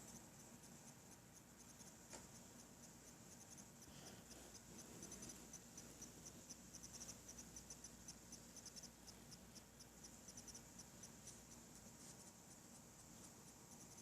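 Qi wireless charger giving off a faint high-pitched electronic whine that chirps in rapid, uneven pulses, strongest through the middle.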